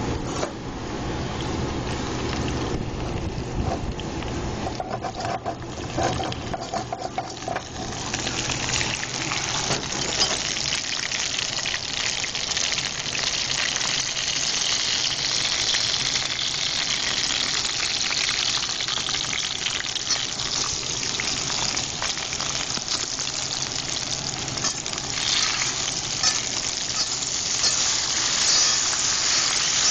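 Sliced potatoes frying in a cast iron skillet: a steady sizzle that grows louder and brighter about eight seconds in, with a utensil stirring through the slices near the end.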